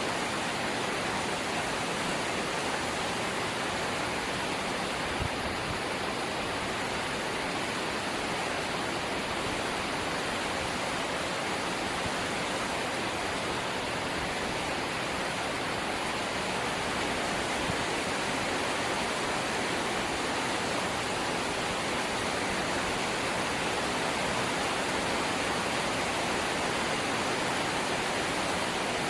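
Steady light rain, an even hiss with no single drops standing out.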